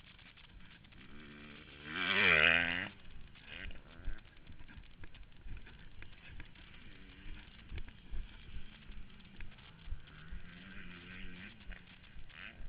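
Motocross bike engines racing on the track: one bike's engine revs up loudly with a wavering pitch about two seconds in, and a fainter engine drones near the end.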